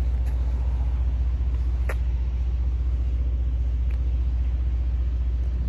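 Porsche 911 (992) Carrera 4S twin-turbo flat-six idling at a steady low rumble while warming up, with a faint click about two seconds in.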